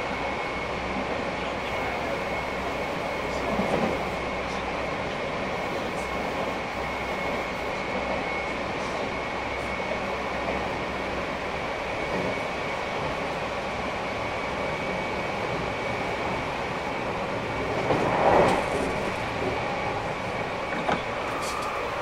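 Meitetsu 2300 series electric train heard from inside the car while running between stations: a steady rumble of wheels on rail with a thin steady high whine, and two brief louder swells, about 4 s in and around 18 s in.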